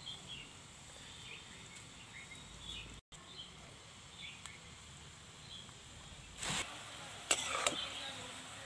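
Faint outdoor quiet with small scattered chirps and a brief dropout about three seconds in. About two-thirds through, sliced onions start sizzling as they fry in oil in a wok, and a steel spatula knocks against the pan twice.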